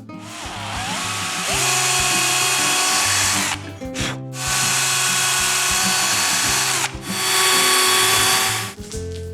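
Power drill running three times for a few seconds each, with short breaks between, screwing wooden rub rails onto a canoe's deck edge; the motor whines up at the start of the first run.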